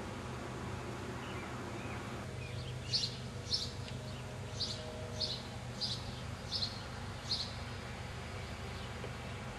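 A small bird chirping outdoors: about seven short, high chirps a little under a second apart in the middle of the stretch, over a steady low background hum.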